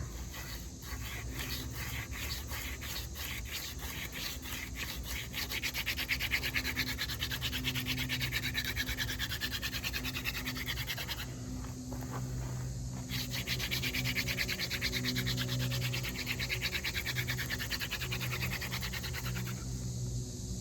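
Horseweed-stalk spindle spun between the palms in the notch of a mullein-stalk fireboard: a fast, rough rubbing of the hand drill, breaking off for a couple of seconds about eleven seconds in, then resuming and stopping shortly before the end.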